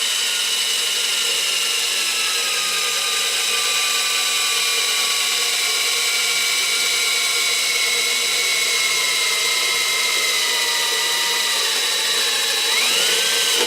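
Electric drill boring a hole, its motor whine slowly falling in pitch, then briefly rising and dropping again near the end.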